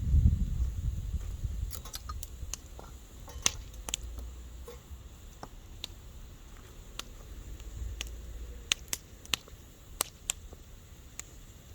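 Wood bonfire crackling, with irregular sharp pops and snaps, a few louder than the rest, over a faint hiss. A low rumble at the start dies away within the first couple of seconds.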